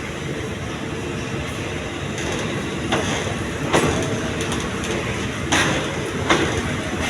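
Train running on the rails: a steady rumble of wheels and carriage, with a few sharp knocks as the wheels cross rail joints.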